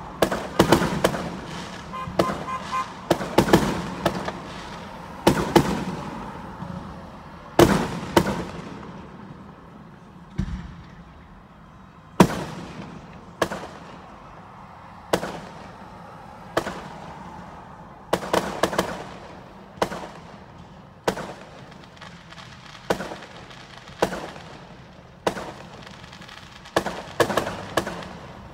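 Aerial fireworks shells bursting: a rapid string of bangs for the first several seconds, then single bangs about every second or so, with short quick flurries again later. Each bang trails off briefly.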